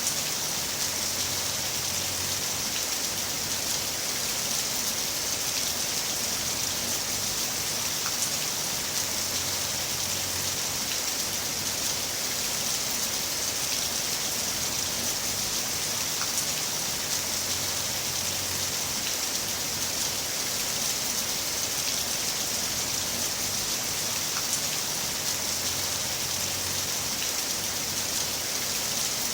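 Heavy rain falling steadily, a constant hiss of drops with faint scattered individual drop ticks.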